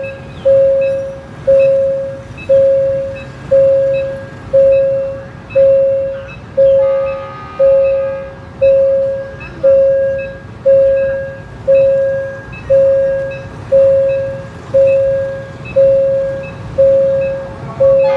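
Railway level-crossing warning bell ringing steadily, one sharp strike about every second, each dying away before the next. A short pitched tone, like a distant horn, sounds briefly about seven seconds in.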